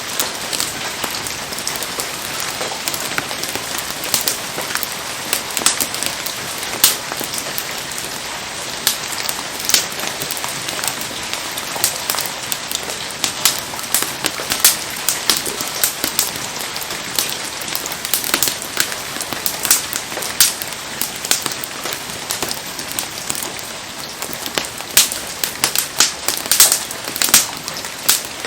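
Wood campfire burning in steady rain: an even hiss of rain with frequent sharp crackles and pops scattered through it.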